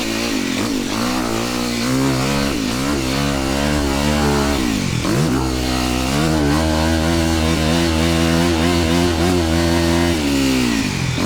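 Dirt bike engine running hard on a motocross track. Its pitch drops sharply and climbs straight back up several times as the revs fall and rise.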